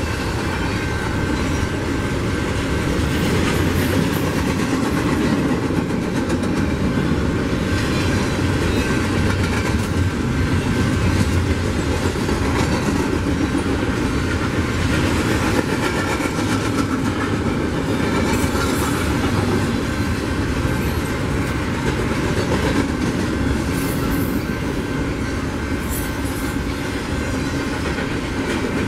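Double-stack container train of well cars rolling past at a steady speed: a continuous rumble of steel wheels on rail, with a few faint clicks.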